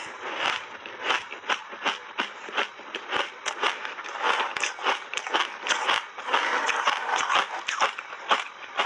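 A person biting and chewing crunchy shaved ice in big mouthfuls: a dense, irregular run of sharp crunches, several a second.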